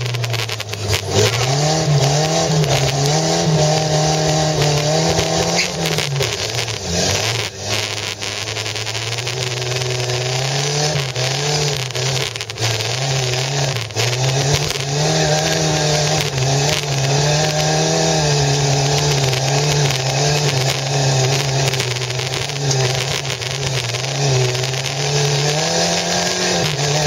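Volvo 240's engine revving up and falling back again and again as the car is driven hard over rough ground, heard from inside the cabin, with scattered knocks and rattles from the jolting car.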